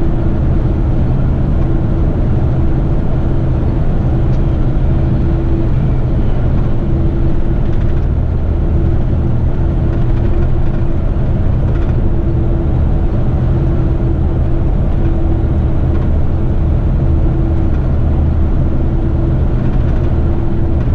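Heavy rigid truck's diesel engine running steadily under way, a continuous low drone with a constant hum above it.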